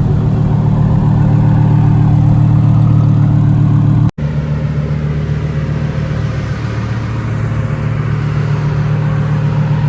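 Twin-turbo Lamborghini Huracán V10 running at a steady pitch, with no revving up or down. The sound drops out for an instant about four seconds in.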